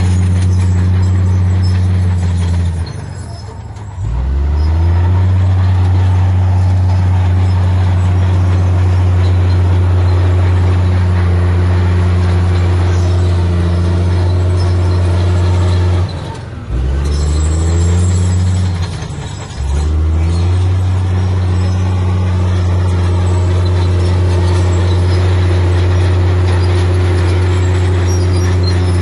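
Heavy diesel engine of earthmoving machinery running hard at steady high revs. Three times its speed drops briefly and then climbs back: about three seconds in, about sixteen seconds in, and again about three seconds later.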